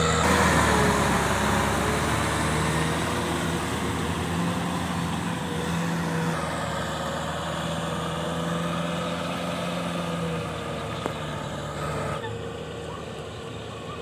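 Kubota M6040SU tractor's diesel engine running steadily under load, at an even pitch, growing gradually fainter with a further drop about twelve seconds in.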